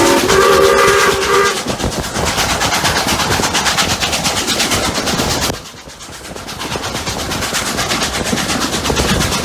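Steam locomotive whistle sounding a several-note chord that cuts off about a second and a half in. It is followed by the fast, even exhaust beat of double-headed steam locomotives Rx207 and 621 (an SAR Rx-class 4-6-0 and a 520-class 4-8-4) working uphill, with the running noise of the train. The sound drops away briefly just past halfway and then builds back.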